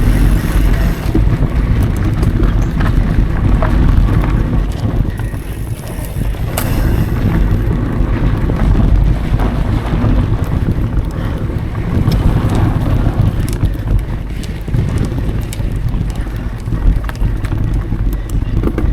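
Wind buffeting an action camera's microphone during a mountain bike ride on dry dirt singletrack, with a heavy steady rumble from the tyres and frequent small clicks and rattles from the bike.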